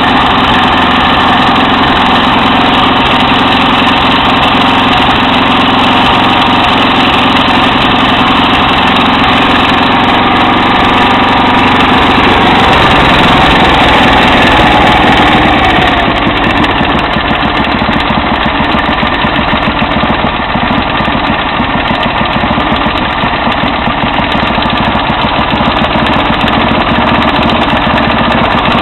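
Kubota MAG engine of a self-propelled rough-cut mower running loud and steady. About halfway through, the sound becomes slightly quieter and rougher.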